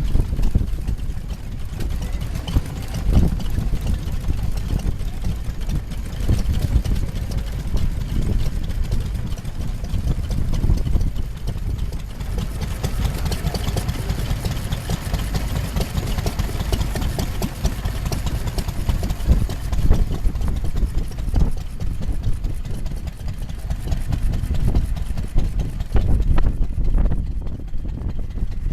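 Vintage engine running steadily at low revs, a low rumble throughout.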